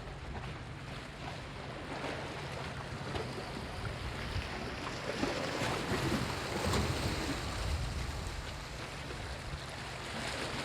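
Small sea waves breaking and washing onto a sandy beach, swelling a little louder midway through.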